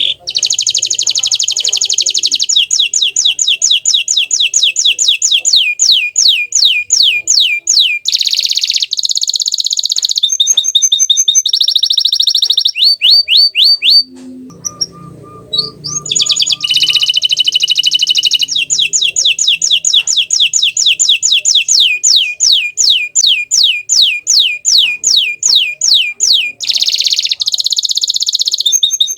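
Bottle-green canary singing: two long song phrases of fast trills and rapidly repeated rising notes, high-pitched and loud, with a short break about halfway through.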